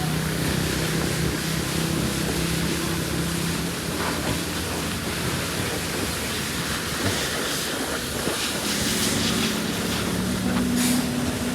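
A motor running steadily under a constant hissing rush, its hum shifting to a higher pitch about eight seconds in.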